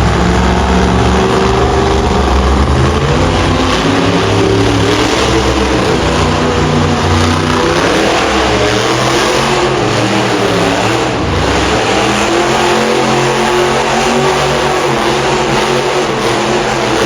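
Monster truck engine running hard and revving, its pitch rising and falling repeatedly as the truck drives.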